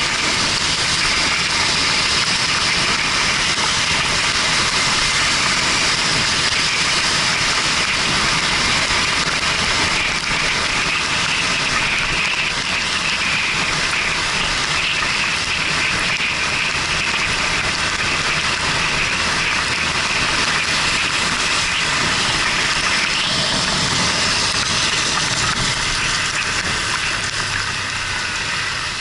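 Yamaha Fazer 250's single-cylinder engine running while the motorcycle rides through rain, under a steady loud hiss of wind, wet tyres and spray.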